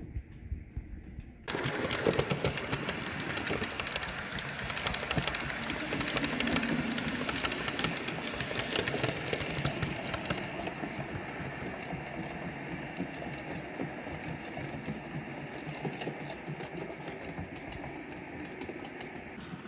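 Model train running on the layout, a steady busy whir with rapid fine clicking that starts abruptly about a second and a half in and cuts off near the end.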